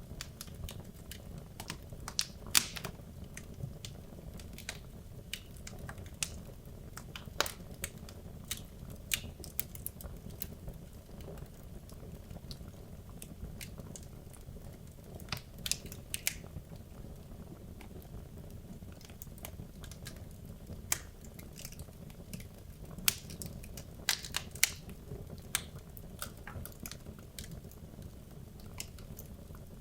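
Wood logs burning in a fireplace: irregular crackles and sharp pops over a steady low rumble of the flames, the loudest pop about two and a half seconds in.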